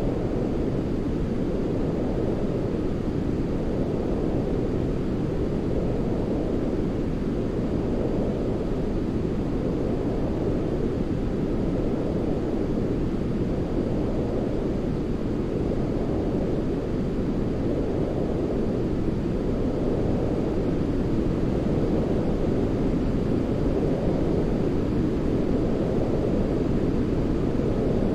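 Steady sleep-aid noise for babies, deep and rumbling, weighted to low pitches like brown noise, with a gentle slow swell every few seconds.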